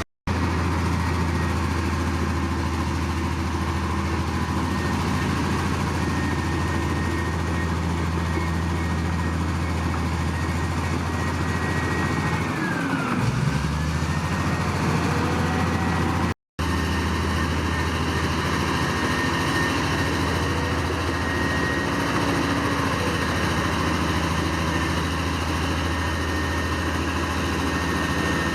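Heavy earthmoving machine's diesel engine running steadily with a low hum; about thirteen seconds in its pitch sags and then climbs back. The sound drops out for an instant twice.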